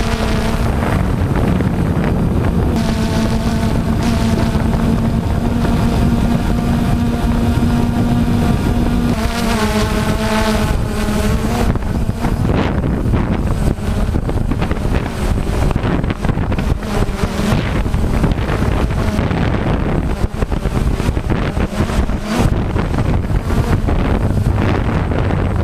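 DJI Phantom quadcopter's motors and propellers whining steadily, heavily buffeted by strong wind on the microphone. About ten seconds in, the motor pitch wavers as the motors change speed, and in the second half the motor tone is mostly buried under wind rumble.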